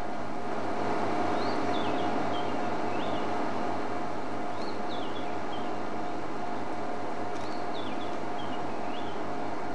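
White-browed scrub robin singing: a short phrase of high whistled notes that sweep up and then drop, repeated about every three seconds, over a steady low hum and hiss.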